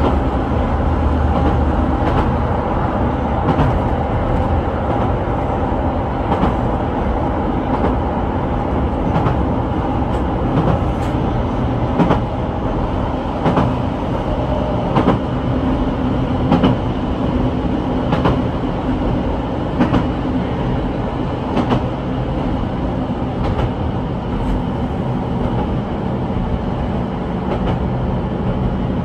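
Keihan 800 series electric train running, heard from inside the driver's cab: a steady motor hum over the running noise, with the wheels clicking over rail joints about every second and a half.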